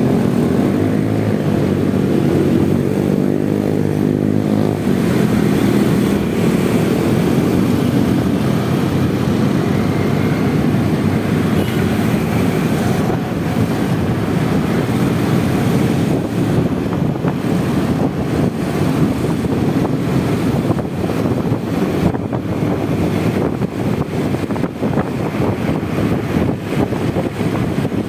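Honda Vario 125 scooter's single-cylinder engine running under way, its hum changing pitch during the first few seconds. It then gives way to a steady rush of wind and road noise on the microphone.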